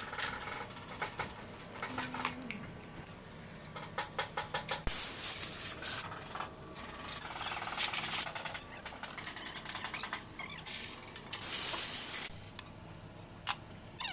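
Tata engine running with rapid clattering ticks and rattles, and two loud bursts of hiss, about five seconds in and near twelve seconds.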